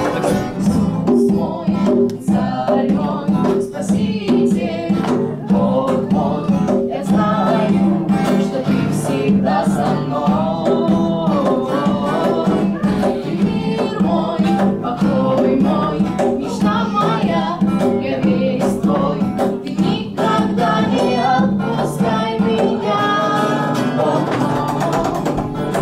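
A group of voices singing together over instrumental accompaniment with a steady beat.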